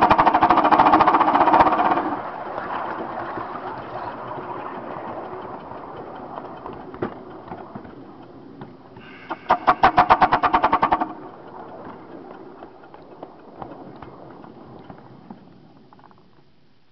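Locomotive setting off and running light engine, its exhaust giving two loud spells of rapid, even pulses under hard power: one at the start and one about nine seconds in. Between them it runs quieter, and near the end it fades away.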